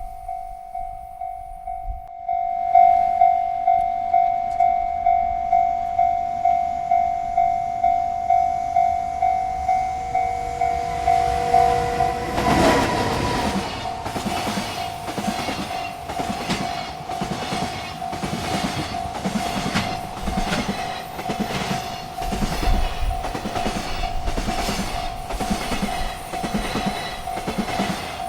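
Railroad crossing bell ringing at about two strikes a second, suddenly louder about two seconds in. Roughly halfway through, a freight train arrives and its cars clatter past in a rhythmic clickety-clack over the rails while the bell keeps ringing.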